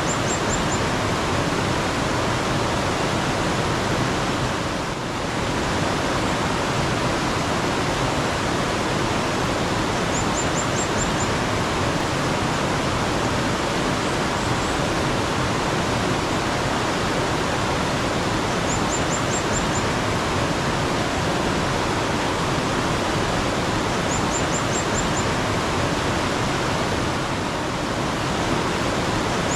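Steady rush of a flowing mountain stream, with a small bird calling a quick run of four or five high notes about every five seconds.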